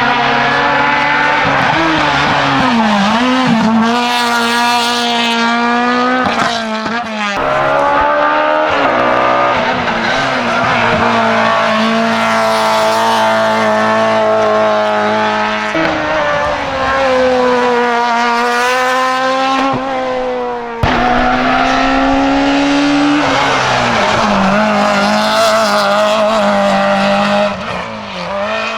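Racing car engine at hard throttle, its pitch climbing and dropping back repeatedly through gear changes. The sound jumps abruptly three times, a quarter, half and two-thirds of the way through.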